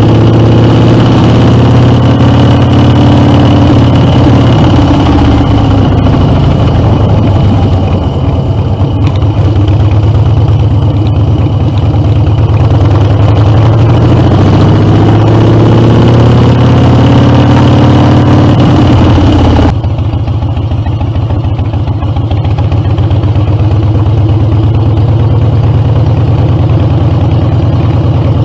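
Harley-Davidson Dyna V-twin running through Screamin' Eagle exhaust, its engine note slowly falling and rising in pitch. The sound changes abruptly about twenty seconds in.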